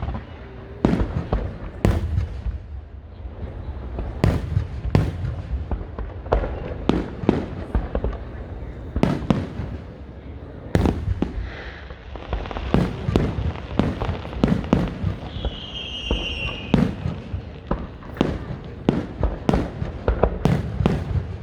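Aerial fireworks exploding in quick, irregular succession: sharp bangs over a low rumble, with a brief high whistle about fifteen seconds in.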